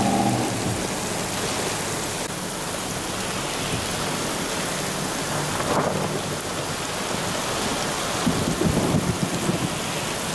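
Heavy rain pouring down steadily in a thunderstorm, with a rumble of thunder and crackles near the end. A vehicle engine hums briefly at the start.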